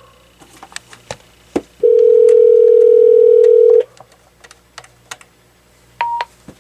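AT&T 7720 answering system beeping: a few small clicks, then one loud, steady, low electronic tone held for about two seconds, and near the end a short, higher beep.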